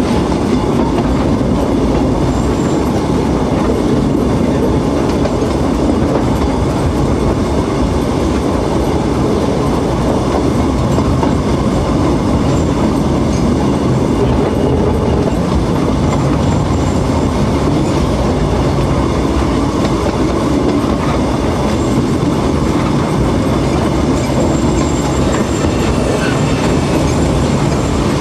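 Narrow-gauge steam train running steadily, heard from one of its open carriages: a loud, continuous noise of the carriage wheels on the track.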